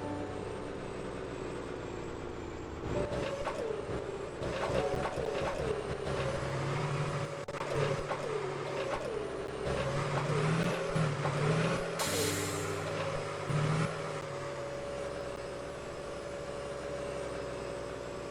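Garbage truck at work: its engine runs up and down while a series of whines rise and fall, with a short hiss of air about twelve seconds in.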